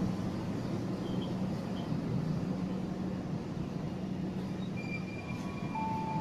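Passenger train coaches rolling past close by: a steady rumble of wheels on the rails with a low steady hum underneath. Near the end a thin high steady tone comes in.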